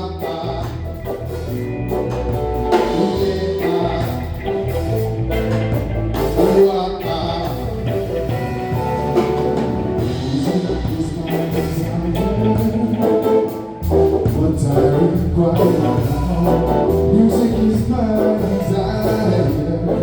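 Live band music with bass, drum kit and guitar, and some singing.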